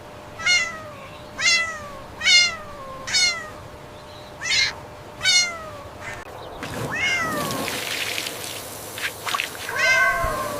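A cat meowing six times in quick succession, each short meow falling in pitch, then a stretch of hiss-like noise and one more meow near the end.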